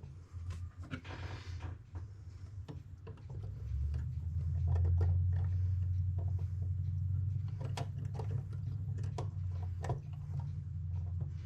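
Scattered light clicks and taps of small clock-movement parts being handled and fitted, over a low steady hum that grows louder about four seconds in.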